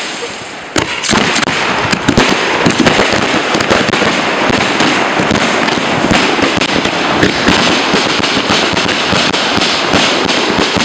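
Fireworks show: a dense, continuous barrage of bangs and crackling. A brief lull gives way to the barrage about a second in.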